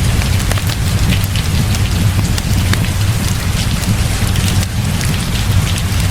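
Heavy rain falling steadily, with a constant low rumble underneath and many scattered sharp ticks of drops.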